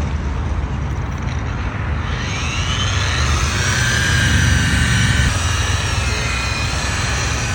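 A vehicle engine running loudly under load. About two seconds in, a whistle rises in pitch and then holds for a few seconds.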